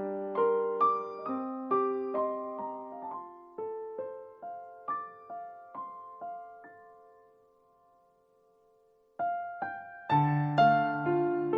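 Background piano music: a slow melody of single notes over chords, each note ringing and dying away. The playing thins out and falls to a brief pause a little over seven seconds in, then comes back with fuller chords.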